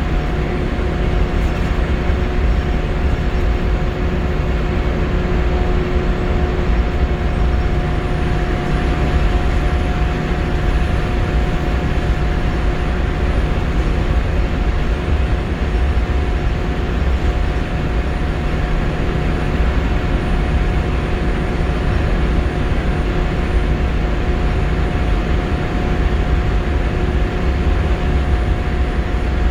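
Scania L94UB Wright Solar single-deck bus heard from on board while moving: a steady low engine and road rumble with a steady whine that holds its pitch throughout.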